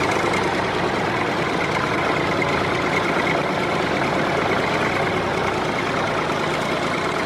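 Engine of a home-made tractor running steadily, a dense, even noise with a faint steady whine on top.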